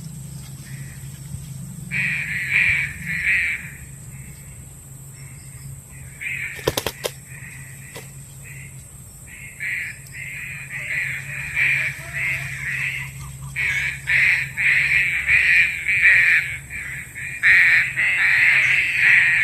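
Punai daun (pink-necked green pigeon) calling: short rough notes repeated in bouts, growing denser and louder toward the end. A quick cluster of sharp clicks comes about seven seconds in.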